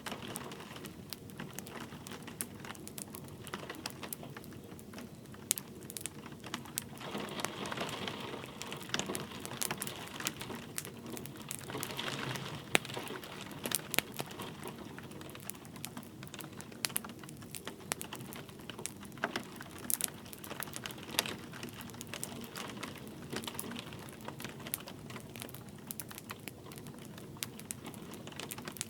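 Wood fire crackling with frequent sharp pops and snaps, over a steady hiss of light rain that swells briefly a couple of times.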